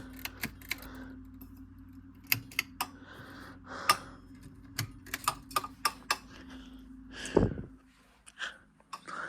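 Irregular sharp clicks and taps over a steady low hum, with one louder sweeping rustle about seven seconds in.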